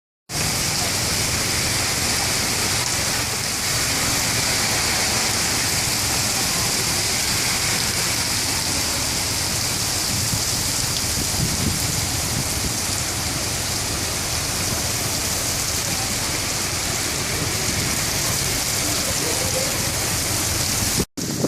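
Heavy rain falling, a dense steady hiss with no break until it cuts off abruptly near the end.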